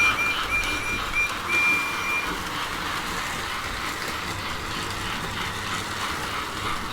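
Toy model train running along its track with a steady rolling clatter. A thin high tone cuts in and out over the first two seconds.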